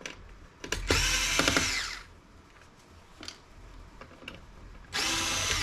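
Cordless drill driving out small laptop screws in two short bursts, about a second in and again near the end, the motor whine rising as it spins up and then holding steady. Small clicks and taps sound between the bursts.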